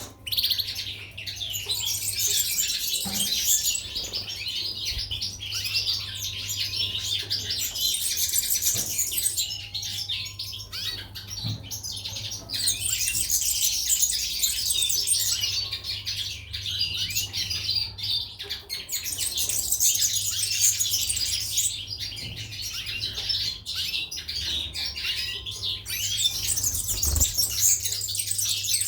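Many small songbirds, goldfinches and canaries, chirping and twittering over one another without pause, with a low steady hum underneath.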